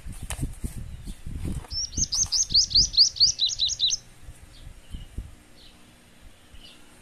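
A bird sings a quick run of about a dozen high chirps lasting about two seconds, starting about two seconds in. Beneath it, a plastic candy wrapper crinkles and is peeled off a wafer cone, with soft handling bumps.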